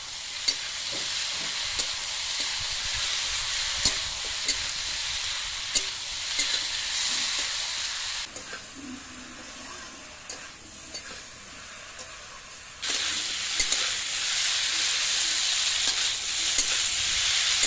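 Sliced vegetables with freshly added cumin-ginger paste and chilli powder sizzling in oil in a metal kadai, while a metal spatula stirs them and scrapes and clicks against the pan. The sizzle drops quieter for about four seconds in the middle, then comes back.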